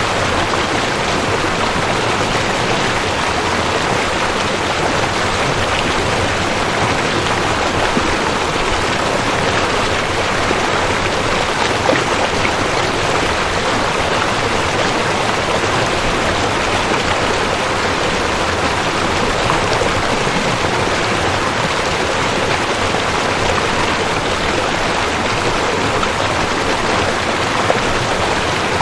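Rushing creek: water running steadily over rocks, a constant even rush with no breaks.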